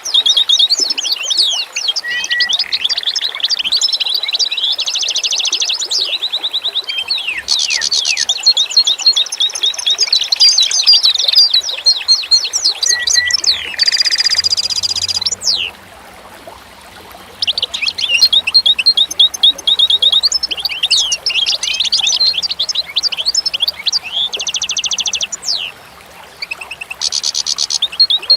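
Songbirds singing in a dense chorus of rapid chirps, trills and whistled notes, falling quiet briefly twice.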